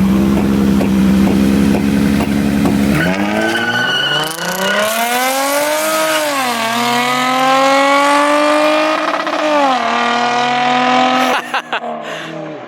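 Car engine held at steady revs, then pulling hard at full throttle from about three seconds in, its pitch climbing steadily with an upshift about six seconds in and another near ten seconds in.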